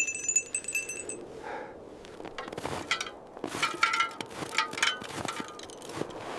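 Bright, glassy ringing clinks: a quick cluster in the first second, then a further run of pitched clinks from about two and a half seconds in.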